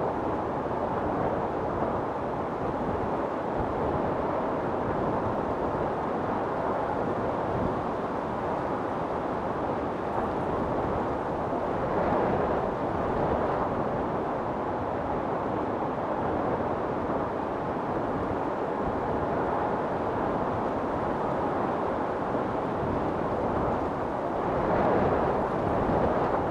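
Wind storm: strong wind blowing steadily, with gusts swelling about twelve seconds in and again near the end.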